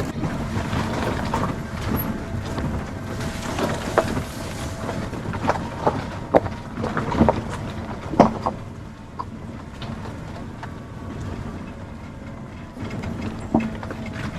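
Vehicle driving along a mountain road: a steady rumble of engine and tyres, with irregular knocks and rattles through it. The rumble eases somewhat about two thirds of the way through.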